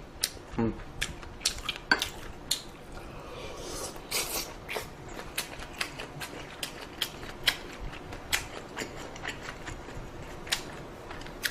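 Close-up eating sounds: irregular sharp clicks of utensils against a dish while a bowl of ramen with sausage and Spam is eaten, with a short noisier stretch about four seconds in.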